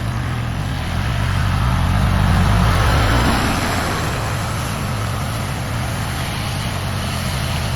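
A heavy vehicle's engine running steadily, swelling louder about two seconds in and easing back after, under the even hiss of heavy rain.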